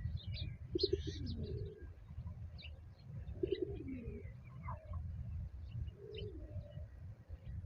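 Doves cooing three times in low, pulsed phrases, with small birds chirping in short high notes between them over a steady low rumble.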